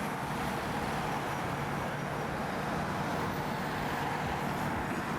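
Steady road vehicle noise: engine and tyre sound of motor traffic, with no siren sounding.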